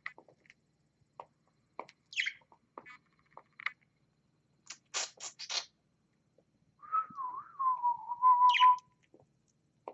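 Pet birds calling at feeding time. Scattered small clicks and a brief high chirp come first, then a quick run of four short rasping notes. From about seven seconds a bird whistles one long wavering note, ending with a sharp upward chirp.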